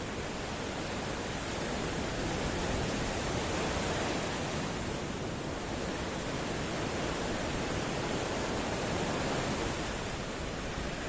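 Ocean waves washing on the shore in a steady rush of surf, swelling gently twice.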